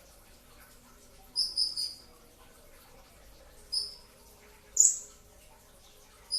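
A kolibri ninja sunbird giving short, sharp, high-pitched chirps: a quick run of three about a second and a half in, single notes near four and five seconds, and one more at the very end.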